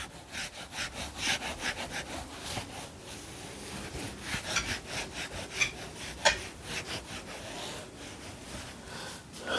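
Writing by hand: a run of quick scratching strokes, about three a second, with one sharper tap just after six seconds in.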